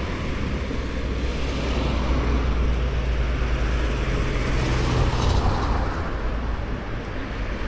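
Road traffic going by: a low, steady engine rumble over a wide hiss of tyres on the road.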